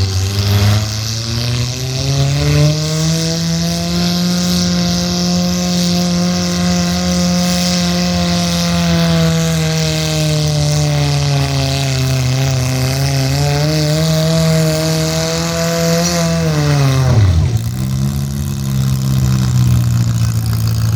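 Pulling vehicle's engine running at high revs under load. Its pitch climbs at the start, holds, sags and recovers past the middle, then drops sharply a few seconds before the end and settles to a lower steady run.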